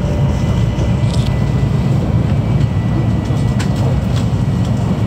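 Steady low rumble of a Tokaido Shinkansen train running, heard from inside the passenger car, with a few faint knocks.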